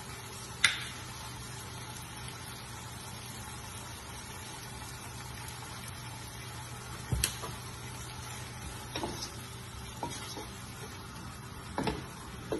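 Shrimp sizzling and simmering in a pot with a steady hiss. There is one sharp knock less than a second in, then several lighter knocks later on as a wooden spoon stirs and taps against the pot.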